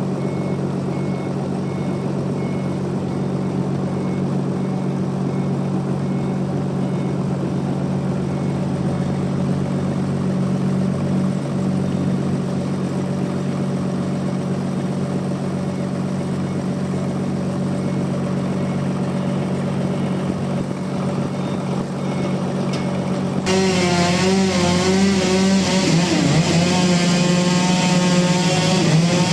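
Band sawmill's engine running steadily. About 23 seconds in the sound jumps louder with a wavering whine as sawing into the log begins.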